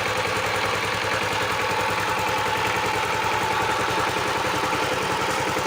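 Power tiller engine running steadily at an even speed, with a rapid, regular firing beat.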